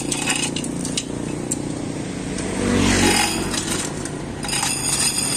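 A motor vehicle engine running steadily, swelling about three seconds in, with scattered light metallic clinks.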